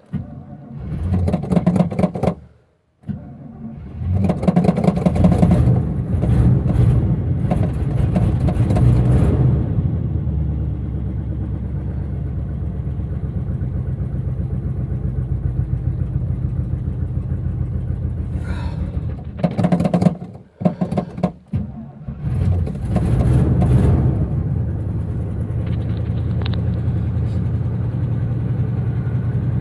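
1982 Chevy pickup's carbureted 350 V8 cold-starting at about −20 °C: the starter cranks briefly, pauses, then cranks again until the engine catches about four seconds in and runs. Near twenty seconds it falters, is cranked and catches again, then runs steadily.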